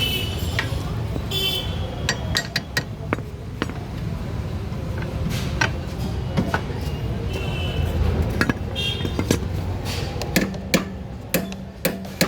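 Sharp metallic clinks and knocks of hand tools on scooter parts, irregular and coming faster near the end, over a steady low rumble.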